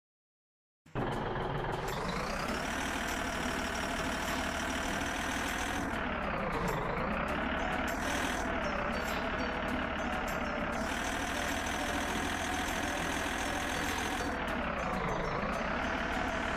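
Heavily loaded wood truck's engine running steadily as it manoeuvres, its pitch dipping and coming back up twice as the throttle eases off and on. It starts about a second in.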